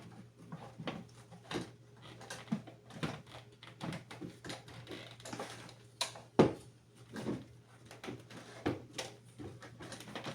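Scattered plastic clicks and knocks from a Bissell AeroSwift vacuum cleaner being handled as its dust cup and parts are fitted back together, with one sharper knock about six seconds in.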